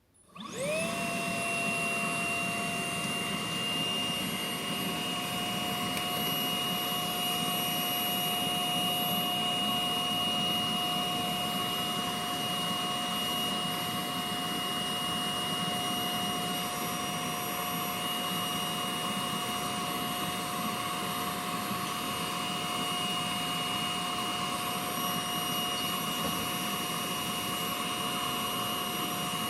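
Hitachi PV-BFH900 cordless stick vacuum's motor switching on and whining up to speed within a second, then running steadily with a high whine over a rushing hum. Near the end it is switched off and the whine falls in pitch as the motor spins down.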